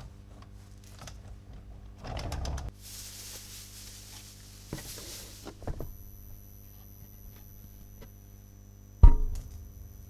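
Plastic toy track pieces and packaging being handled: scattered small clicks, a rustling hiss for a few seconds, and one sharp plastic clack about nine seconds in, over a steady low hum.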